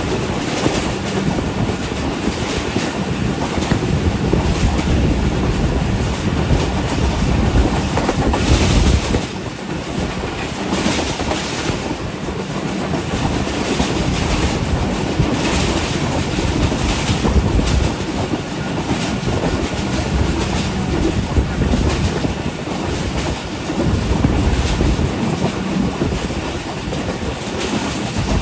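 Passenger train coaches running along the main line, heard from an open doorway: a steady loud rumble of wheels on rail with repeated clicks of the wheels clattering over the rail joints.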